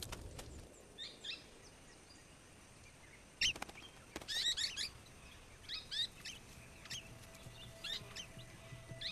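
Golden-shouldered parrots giving short, sharp chirping calls in scattered bursts, one or a few notes at a time, the loudest about a third of the way in.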